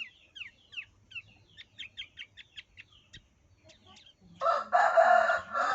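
Branjangan (Javan bush lark) giving short, quick downward chirps, a couple of notes a second, for the first three seconds. A little after four seconds comes the loudest sound: a loud, harsh call of about a second and a half from a larger bird.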